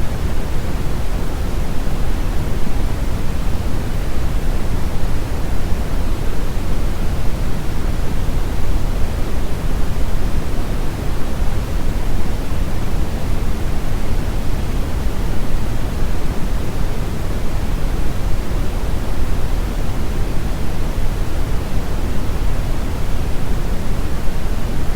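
Steady pink noise: a loud, even hiss heavier in the low end, without any change.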